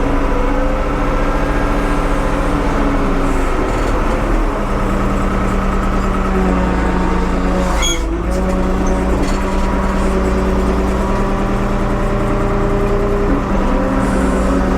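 1975 Ford 550 backhoe's engine running steadily under work, its note shifting as the load changes, with a brief sharp click about eight seconds in.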